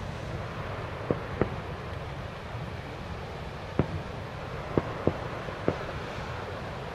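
Distant aerial firework shells bursting: six sharp bangs at uneven intervals, two about a second in, one near four seconds and three more between five and six seconds, over a steady background rumble.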